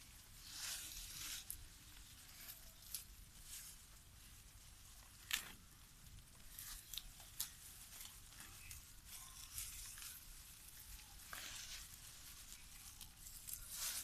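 Faint irregular rustling and tearing, with one sharp click about five seconds in.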